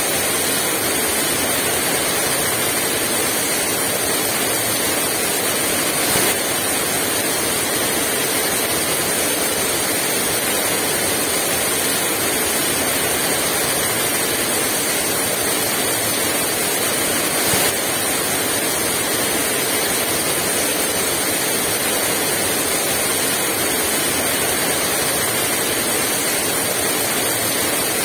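Heavy rain pouring steadily, without wind, with two brief louder hits about six seconds in and again past the middle.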